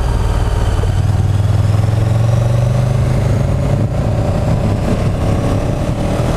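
KTM 1290 Super Duke GT's V-twin engine running under way, loud and steady. Its pitch climbs slightly over the first two seconds, then eases back about halfway through.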